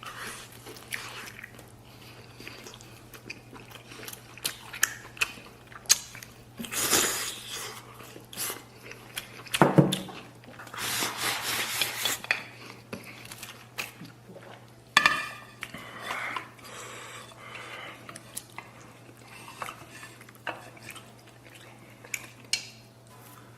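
Someone chewing and gnawing meat off braised pork spare ribs, with scattered clicks of chopsticks and bowl, and louder mouth noises at about 7 s and from about 10 to 12 s. A faint steady low hum runs underneath.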